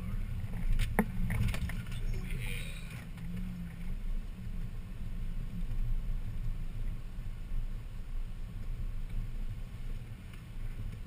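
Off-road vehicle engine rumbling low and steady while crawling through a rocky creek crossing, with a few sharp knocks in the first two seconds.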